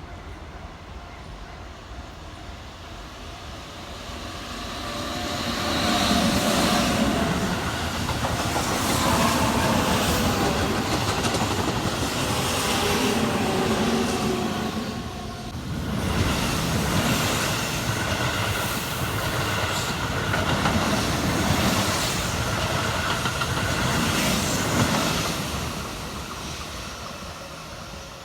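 Keihan electric train passing close by, wheels clacking in a steady rhythm with a motor whine over the running noise. It swells from about four seconds in, dips briefly near the middle, and fades away near the end.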